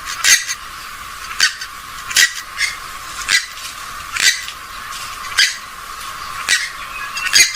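Recorded rail calls, swamphen or moorhen type, played as a lure: short, sharp, squawk-like calls repeating irregularly about once a second, nine in all.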